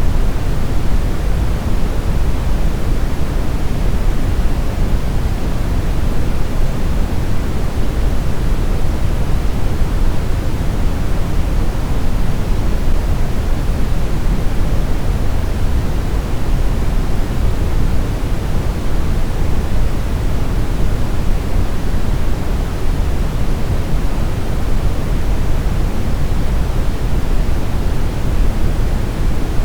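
Steady synthetic brown noise: a constant deep rumbling hiss, strongest in the lows and fading toward the highs, with no changes or events.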